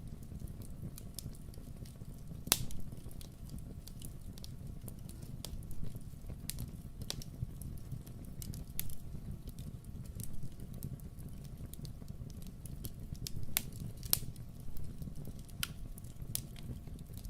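Wood fire in a fireplace crackling: irregular sharp pops and snaps over a low steady rumble, with one louder pop about two and a half seconds in.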